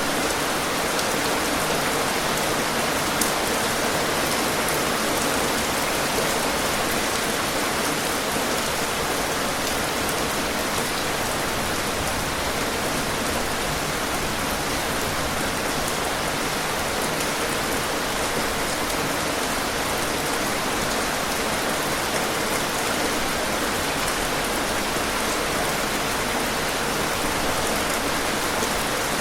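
Steady, even rainfall with scattered sharper drop ticks on top.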